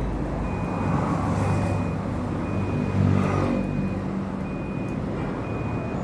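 A vehicle's reversing alarm beeping steadily, about one half-second beep each second, over the low hum of an engine running.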